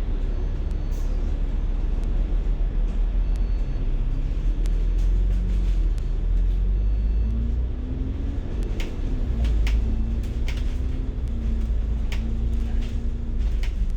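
Bus engine and road rumble heard from inside the moving bus, the engine's pitch rising and then holding steady as it pulls along. Sharp clicks and rattles from the bus interior come in the second half.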